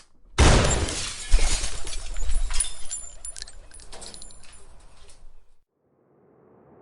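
Glass shattering as a soundtrack sound effect: a sudden crash with scattered tinkling shards dying away over about five seconds, then a faint rising swell near the end.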